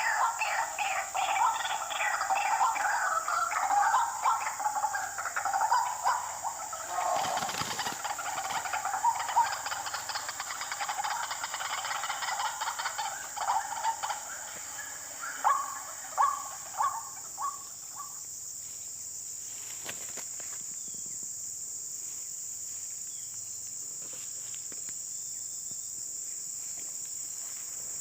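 White-breasted waterhen calls: a long run of repeated croaking notes that breaks into a few separate notes and stops about two-thirds of the way through. Under it, steady high-pitched insect chirring continues throughout.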